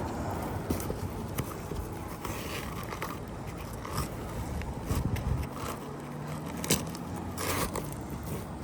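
Asphalt shingles being handled during a roof repair: scattered scrapes, crackles and clicks. A low steady hum comes in about five seconds in.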